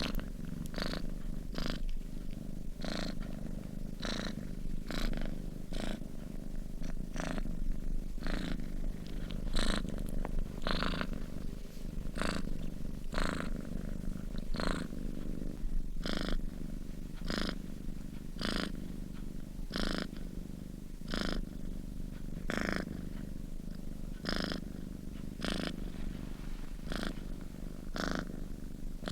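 Domestic cat purring steadily as it sleeps: a continuous low rumble that swells with each breath, about once a second.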